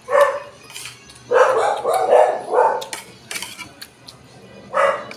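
A dog barking: one bark at the start, a quick run of about five barks from about a second and a half in, and one more bark near the end.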